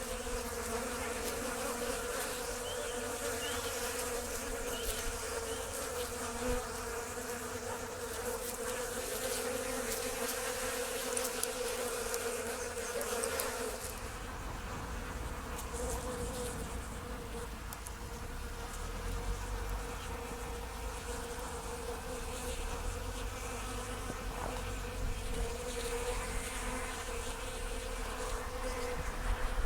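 Many honeybees buzzing steadily as they forage, a constant hum of wings. A low rumble runs underneath from about halfway through.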